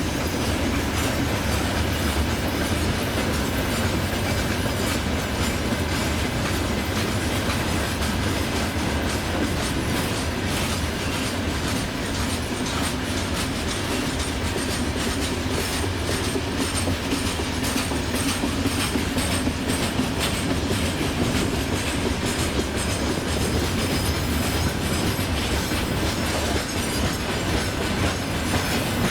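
Freight train wagons rolling past at steady speed, their wheels clattering over the rail joints in a continuous run of clicks over a steady rumble.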